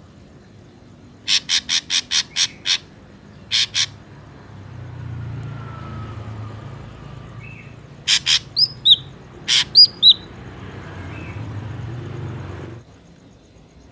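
Ashy drongo calling: a quick run of about seven sharp notes, then a pair, and later a cluster of sharp notes mixed with short up-slurred whistles. A low rumble sits underneath through the middle and cuts off suddenly near the end.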